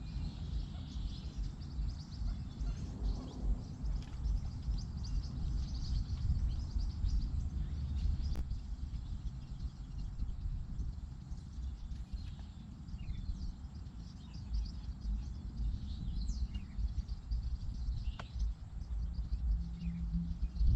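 Birds chirping and calling over a steady low rumble, with one sharp click about eight seconds in.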